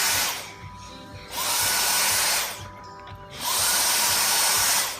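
Vacuum cleaner grooming a cat: the suction rises to a loud rush three times as the nozzle is stroked over the fur, dropping back to a quieter steady run in between.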